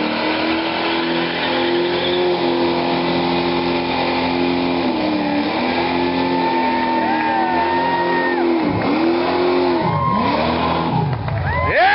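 Hot rod's engine held at high revs, as in a burnout, with the revs dipping and climbing back a few times in the second half. It ends with a sudden loud burst of noise.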